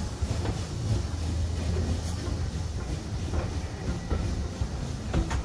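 Steam-hauled heritage railway carriage running along the line, a steady low rumble with irregular clicks and knocks from the wheels on the track.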